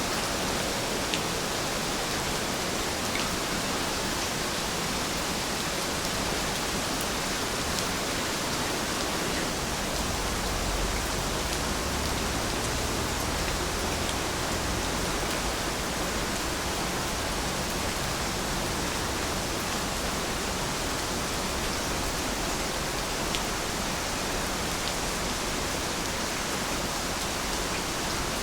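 Steady rain falling, an even hiss with a few sharper single drop ticks here and there.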